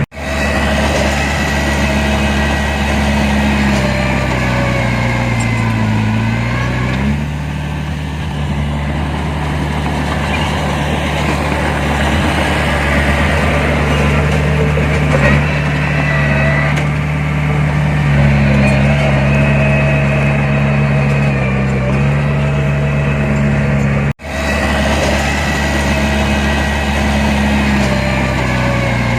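Heavy diesel earthmoving machinery engine running steadily under load. The engine speed drops about a quarter of the way in and picks up again a little past halfway. The sound cuts out sharply for an instant twice.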